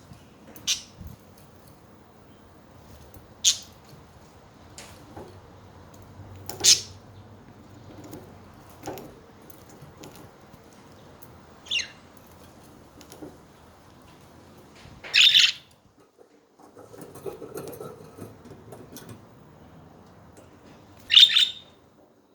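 Pet budgerigars giving short, sharp chirps every few seconds, with a longer, louder call about two-thirds of the way through and another near the end.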